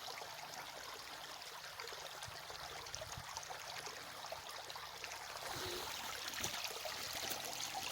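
Creek water running and trickling steadily, a little louder near the end.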